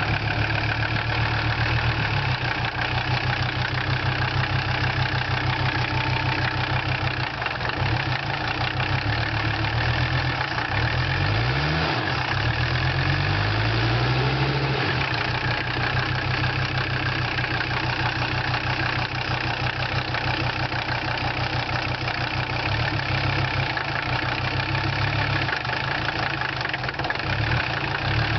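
1985 Mercedes 300SD five-cylinder turbo diesel idling shortly after a cold start at about 40°F with the glow plugs disconnected. The engine speed wavers up and down for a few seconds near the middle and briefly again near the end.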